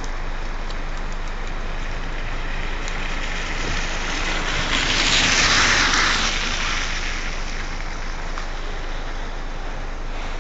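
A car passing on a wet, flooded road, its tyres hissing through the water in a swell that rises and fades about five seconds in, over a steady background of traffic noise.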